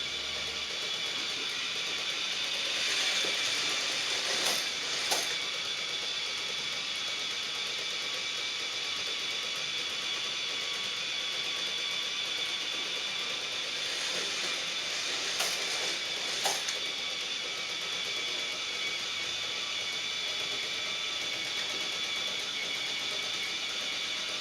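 K'Nex roller coaster running: the small electric motor of the chain lift whirs steadily with a high whine, and plastic parts give a few sharp clicks in pairs, around four to five seconds in and again around fifteen to sixteen seconds in.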